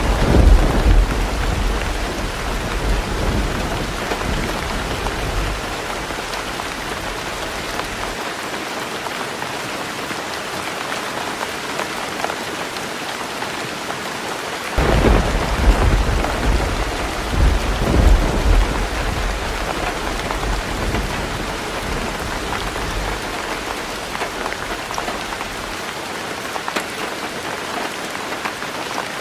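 Heavy rain drumming steadily on a roof, with two long rolls of thunder. The first rumbles at the start and dies away over several seconds. The second comes in suddenly about halfway through, swells twice, and fades out after about ten seconds.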